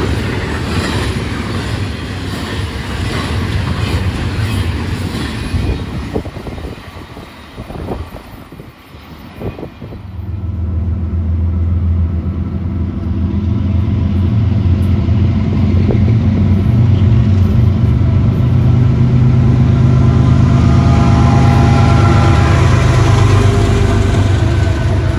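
Wheel clatter of a passing freight train fades away. Then, about ten seconds in, a low diesel locomotive engine drone builds steadily as another train approaches, growing loud near the end.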